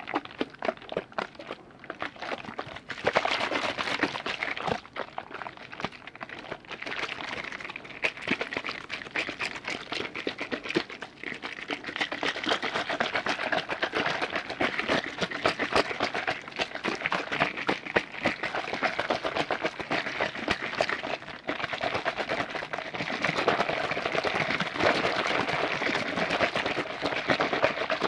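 Liquid sounds: a dense, continuous run of rapid small clicks and pops that gets louder about three seconds in.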